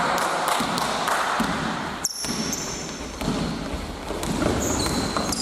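Indoor basketball court sound: a ball bouncing repeatedly on the floor over the murmur of a large hall, with brief high sneaker squeaks after about two seconds and again near the end.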